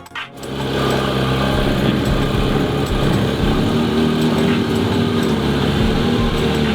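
A car engine running steadily at low revs, its pitch drifting only slightly; a burst of music cuts off just as it begins.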